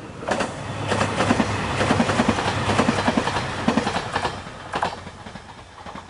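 JR Shikoku 2700 series diesel limited-express railcars passing at speed: wheels clacking over rail joints over a low engine hum, dying away after about five seconds.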